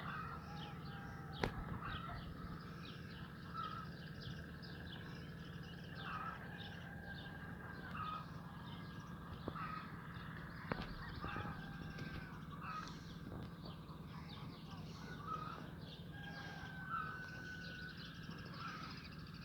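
Several wild birds chirping and calling together, with short whistled notes and one longer, level whistle near the end. A steady low hum lies beneath, and there are a few sharp clicks.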